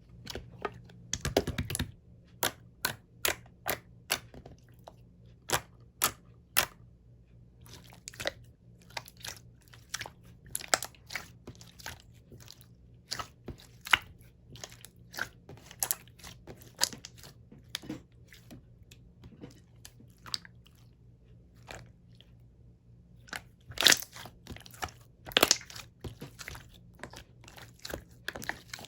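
Slime being squished and pressed by hand, making a run of sharp, wet clicks and pops. They come about one or two a second at first, then thicker and more irregular, with a louder cluster near the end.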